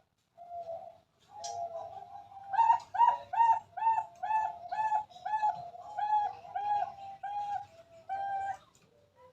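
Zebra dove (perkutut) singing: a few drawn-out coos, then a quick, even run of about a dozen short coos, roughly two a second, that stops about a second before the end.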